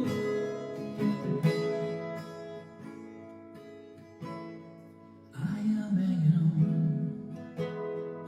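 Acoustic guitar strummed, the chords ringing out and fading away, then louder playing starts again about five seconds in.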